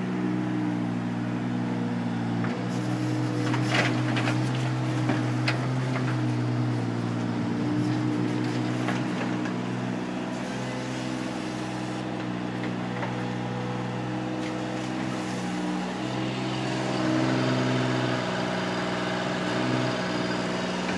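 Small excavator's engine running steadily while digging, with a few sharp knocks scattered through. Late on, the engine note rises and gets louder for a couple of seconds.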